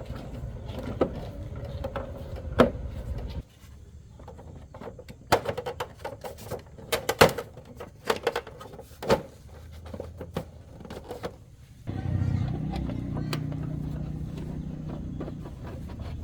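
Sharp metallic clinks and knocks of hand tools during motorcycle repair. A motor runs with a low rumble for the first few seconds, cuts off, then starts again abruptly about twelve seconds in.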